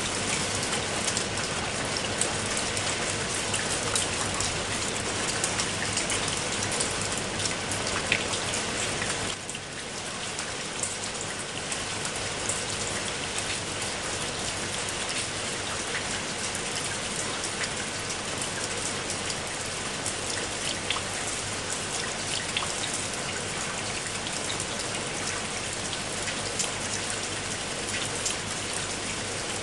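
Steady heavy rain, a dense even hiss with many sharp individual drop ticks. The level dips for a moment about nine seconds in, then settles a little lower.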